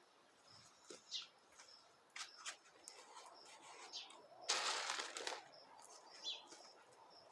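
Faint outdoor sounds: a few short bird chirps and scattered light clicks, with a brief louder rustling scrape a little past halfway.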